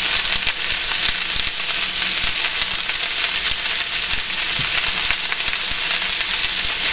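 Chopped cabbage and onion sizzling steadily in hot bacon fat in a skillet, with a fine crackle running through the hiss as the cabbage wilts and browns.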